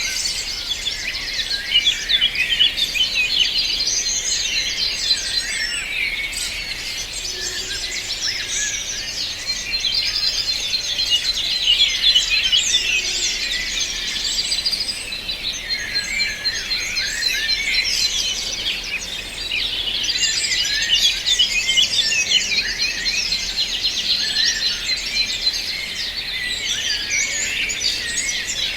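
A dense chorus of many small birds singing and chirping at once, with quick, high-pitched, overlapping calls that never let up.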